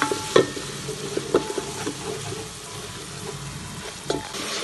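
Onion-tomato masala frying in oil in a steel pot while a spoon stirs it: a steady sizzle with scrapes and knocks of the spoon against the pot, most of them in the first second and a half and one more near the end.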